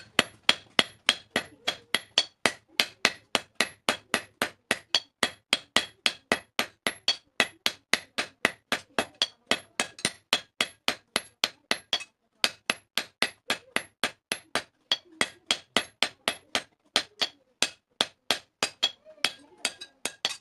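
Blacksmith's hand hammer striking steel on an anvil while forging a hasua blade: a steady run of ringing metal blows, about three a second, with a brief pause about twelve seconds in.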